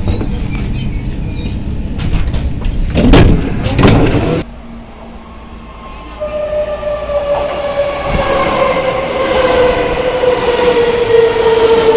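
Electric commuter train running with rumbling wheel noise and two loud clanks, then cutting suddenly to a quieter passage. About six seconds in, the train's variable-frequency traction drive whines with a pitch that falls slowly, as it does when the train slows down.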